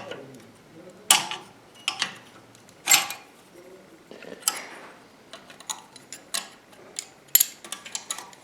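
Sharp metallic clinks and clicks, about one a second with short gaps between, from steel engine parts such as bearing shells and caps being handled and set down during an engine teardown.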